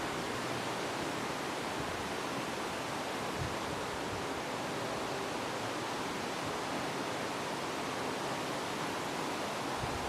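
Wind blowing through tree leaves: a steady rushing rustle that holds at one level, with no gusts striking the microphone.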